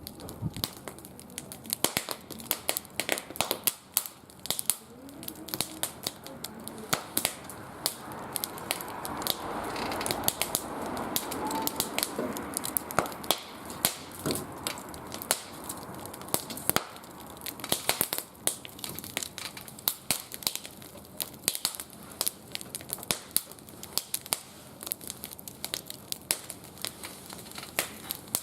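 Wood fire burning in a barbecue grill, crackling with many irregular sharp pops and snaps. A soft rushing hiss swells about eight seconds in and fades again a few seconds later.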